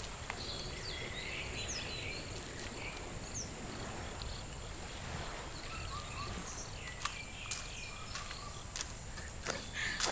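Outdoor ambience: a steady wash of background noise with scattered short bird chirps. Footsteps come in with sharp steps in the second half.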